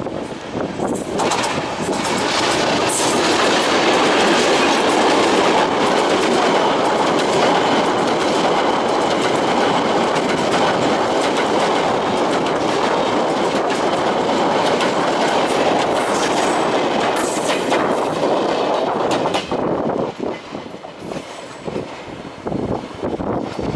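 Diesel freight train passing close by: an EMD GT22 locomotive followed by empty flat wagons, the wheels clattering over the rail joints in a loud, continuous run. The noise drops off in the last few seconds as the train moves away.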